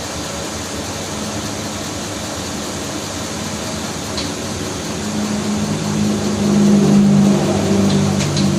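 Car engine idling just after an oil change, freshly filled with oil and running so the oil filter can be checked for leaks. A louder hum swells about five seconds in, with a couple of light clicks.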